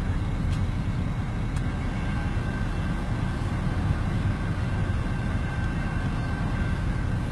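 Steady low vehicle rumble heard from inside a car at a railroad crossing, with a faint steady high tone over it.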